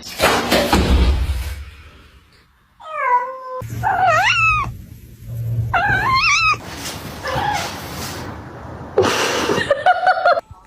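A cat yowling in several drawn-out calls that waver up and down in pitch: about three seconds in, again near four seconds and six seconds, and once more briefly near the end, with bursts of rustling noise in between.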